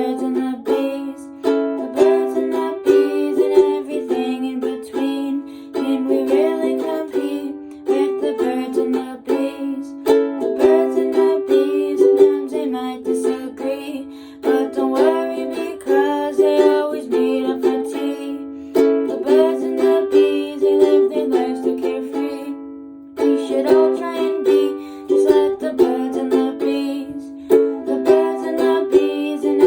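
Ukulele playing an instrumental passage of plucked chords and melody notes, with a short break about two-thirds of the way through.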